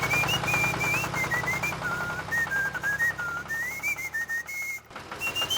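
Someone whistling a wandering tune, note by note, over the steady running of the DIY tractor's small motor. The motor sound drops out briefly near the end.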